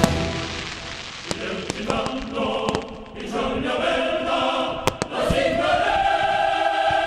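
Choral music with sustained voices, cut through by several sharp firework bangs and cracks.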